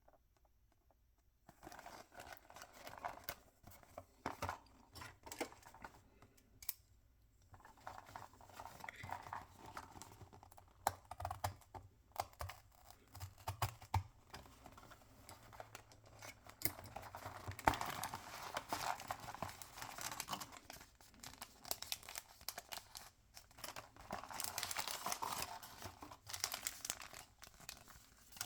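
Toy packaging being torn open and crinkled by hand, with many small crackles and clicks, starting about a second and a half in and pausing briefly near the quarter mark.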